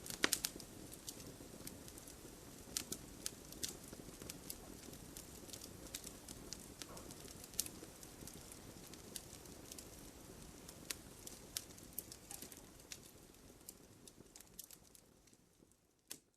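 Wood fire in a fireplace crackling, with irregular sharp pops of burning logs over a low steady rumble of flame. The sound fades out near the end, with one last pop just before it goes silent.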